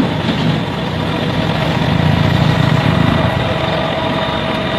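An engine running steadily at idle, with a constant low drone and a faint steady whine above it.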